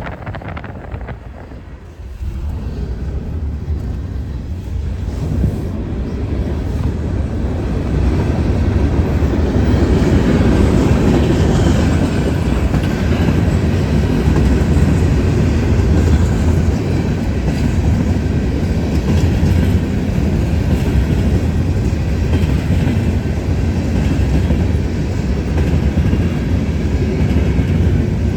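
Grand Elk Railroad grain train of freight cars rolling past on the rails, growing louder over the first several seconds and then running steady.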